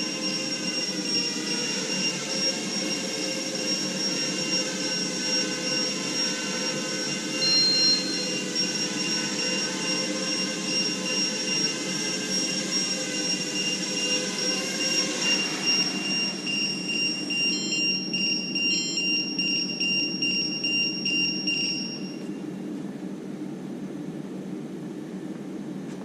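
Small quadrotor's electric motors and propellers running in flight, their pitch wavering as the motor speeds change, then dying away about 15 seconds in as it lands. A high-pitched battery-alarm buzzer sounds continuously through the flight and stops a few seconds after the motors: the flight battery's low-voltage warning.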